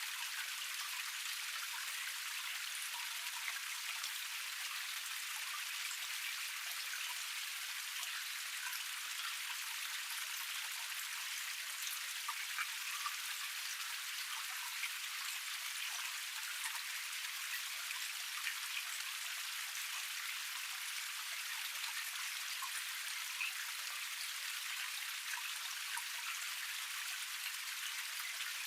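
Water splashing steadily down one tier of a small forest cascade: a dense, even hiss with scattered small drips and splashes.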